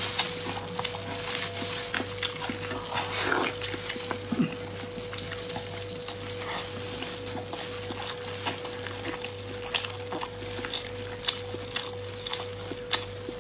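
Close-miked eating of sticky braised pork: wet chewing, lip-smacking and many small mouth clicks, over a steady background hum.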